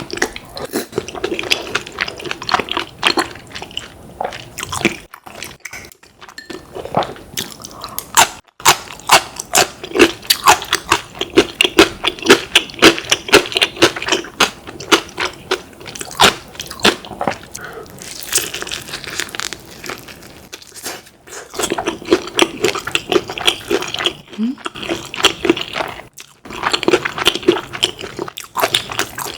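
Close-miked eating: many crisp crunches and chewing sounds of fried chicken being bitten and chewed, coming in quick succession with a few short pauses.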